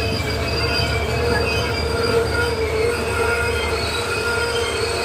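Train running along the rails with a steady low rumble, its wheels squealing against the rails in several thin, high, steady tones.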